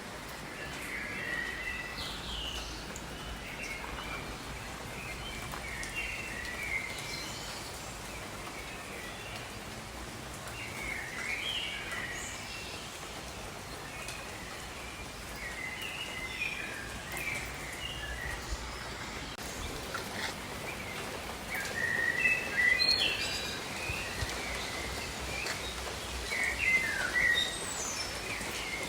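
Steady rain with birds chirping and calling in short clusters every few seconds, loudest a little after two-thirds of the way through and again near the end.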